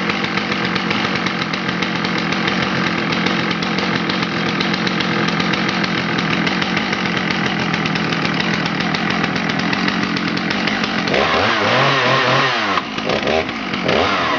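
Stihl 066 two-stroke chainsaw (91cc) running steadily at high speed; over the last few seconds its engine speed rises and falls repeatedly.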